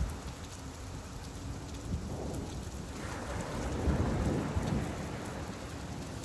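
Steady rain falling, with a low rumble that swells about three seconds in and fades a couple of seconds later.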